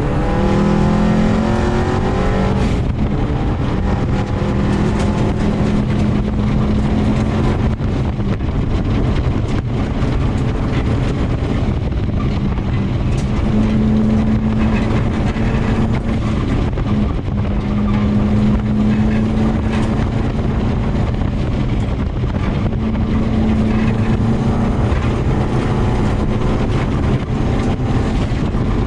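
Subaru WRX's turbocharged flat-four engine running hard under load at rally pace, heard inside the cabin, its pitch climbing early on as it revs, over a continuous rumble of tyres on gravel.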